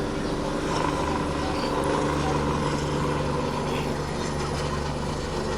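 Flying Doctor helicopter climbing away after lift-off, its rotor and engine giving a steady drone.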